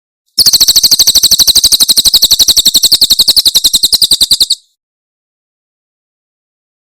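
Cililin bird's 'tembakan' call: a rapid, even trill of high notes, about fifteen a second, that starts half a second in, runs about four seconds and stops abruptly.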